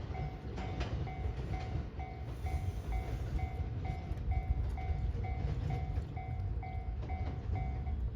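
Series 113 electric train moving slowly through the station with a steady low rumble, while a railway warning bell dings about twice a second and stops near the end.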